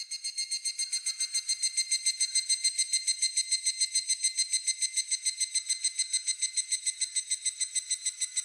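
Higurashi (evening cicada) calling: a fast, even run of ringing, high-pitched pulses, about eight a second, that begins abruptly, swells over the first second and then holds steady.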